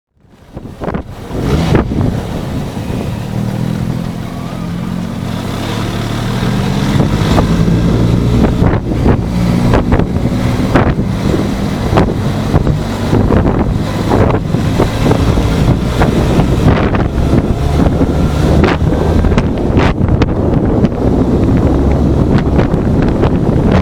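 Benelli TRK502 motorcycle engine heard through the dashcam's microphone: the engine note rises as the bike pulls away and accelerates. Then wind buffeting on the microphone, in sharp gusts, covers the engine at riding speed.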